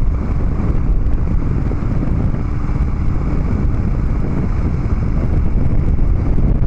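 Harley-Davidson Dyna Street Bob V-twin with Vance & Hines Big Radius 2-into-2 exhaust running at a steady cruise, mixed with heavy wind buffeting on the microphone.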